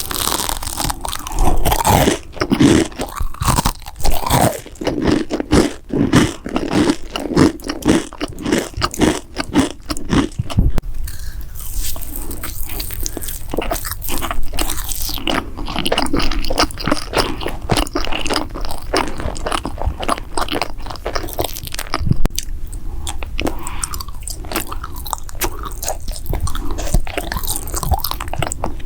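Close-miked eating: biting into and chewing crunchy food, with a dense run of sharp crunches and crackles, thickest in the first ten seconds or so, then steadier chewing.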